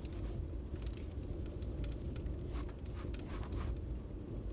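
Drawing on paper: scratchy pencil-like strokes in short runs, over a steady low rumble of rain and fireplace ambience.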